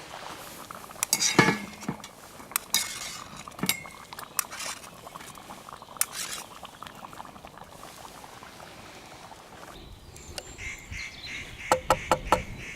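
Metal camp cookware and utensils clinking: scattered knocks with a short ring, then a quick run of several clinks near the end.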